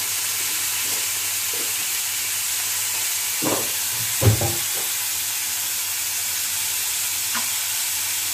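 Grated carrots and spices sizzling steadily in a steel kadhai, with two short knocks about three and a half and four seconds in, the second one the loudest.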